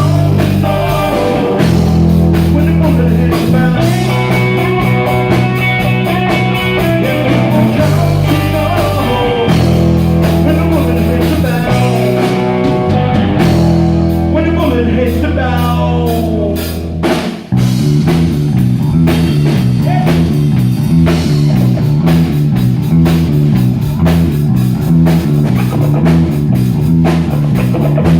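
Rock band playing live on drum kit, electric guitar and bass. Long held bass notes give way, after a brief break about 17 seconds in, to a fast repeating riff.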